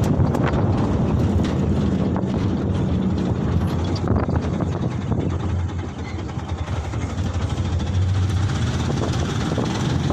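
Canter light truck on the move: a steady low engine drone with road and wind noise.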